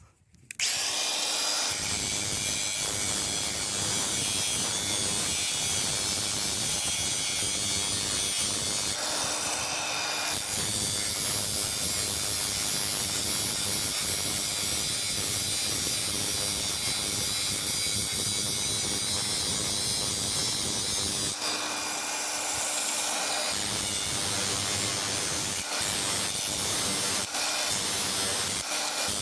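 A power grinder running steadily against a sheet-steel patch panel, trimming its edge to fit. It starts about half a second in and eases briefly about three quarters of the way through.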